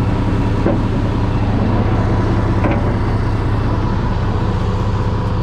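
Concrete mixer truck's diesel engine running steadily at idle, with a few faint knocks and clicks over it.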